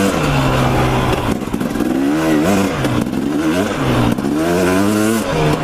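Dirt bike engine revving up and dropping back several times while riding, settling on a steadier lower note between throttle blips.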